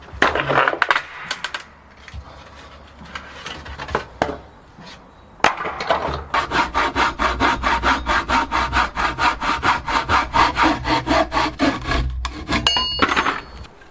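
Hand sawing: a few scraping strokes, then a long run of quick, even back-and-forth strokes at about four a second, with a brief ringing near the end.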